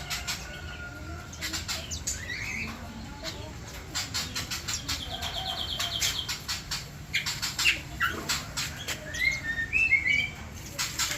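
Small aviary birds chirping with short rising calls. A rapid trill comes about five seconds in, over frequent sharp clicks and wing flutters.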